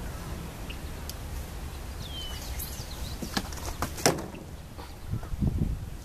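A bird gives a single whistled note that slides down and levels off, about two seconds in, over a steady low outdoor rumble. A few sharp clicks follow around three to four seconds in, and dull low thumps come near the end.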